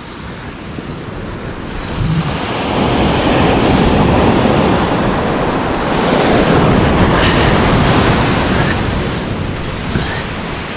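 Ocean waves washing in: a rushing surge of water builds about two seconds in, holds strong for several seconds, then eases off, with some wind on the microphone.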